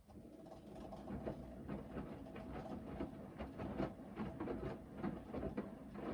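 Hoover VHD 9163 ZI front-loading washing machine in its main wash: the drum starts turning after a pause, with a steady motor hum and the load tumbling in irregular soft knocks and clicks.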